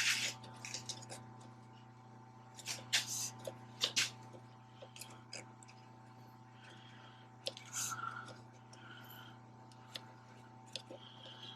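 Scattered small clicks, clinks and short rustles of hand work with tools on the roller's hydraulic hose fittings, a little busier about three to four seconds in, over a steady low hum.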